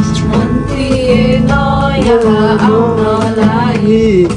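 Live singing to acoustic guitar: a voice holds and bends a drawn-out melodic note over strummed chords.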